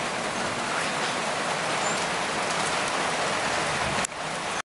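Steady rain falling, an even, dense hiss, with a single click about four seconds in.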